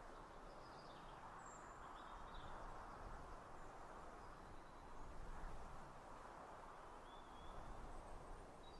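Faint outdoor ambience: a steady low hiss with a handful of faint, brief bird chirps scattered through it.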